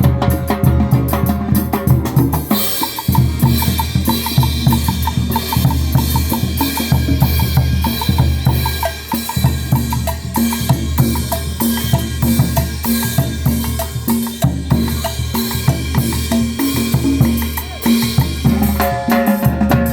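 Band music driven by a drum kit, with bass drum and snare keeping a steady beat under bass and other instruments; the sound fills out with more instruments about three seconds in.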